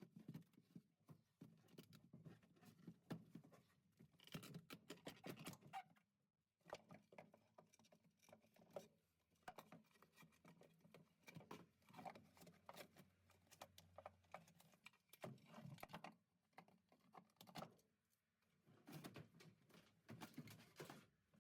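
Faint rapid clicking, scratching and rattling of hands pulling out and handling old wiring and small dashboard parts, in bursts with a couple of short pauses.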